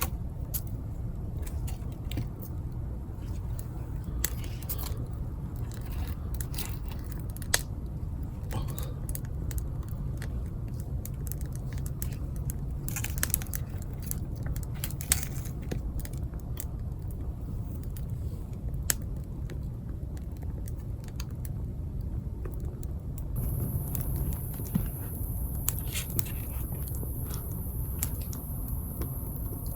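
Scattered sharp clicks and crackles over a steady low rumble, with a steady high hiss coming in about two-thirds of the way through.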